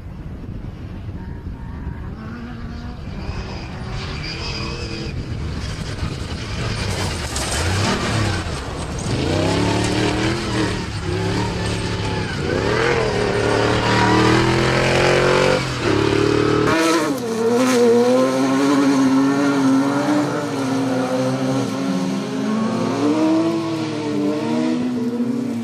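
Comp Safari off-road race vehicle engines revving hard, their pitch repeatedly climbing and falling under throttle. About seventeen seconds in the sound switches abruptly to a different, wavering engine note.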